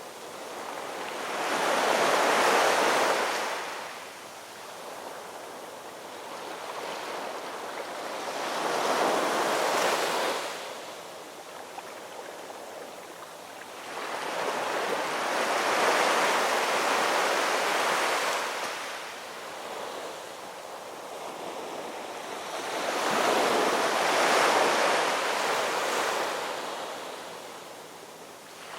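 Ocean waves breaking and washing on the shore. Four swells of surf rise and fall away, about seven to eight seconds apart.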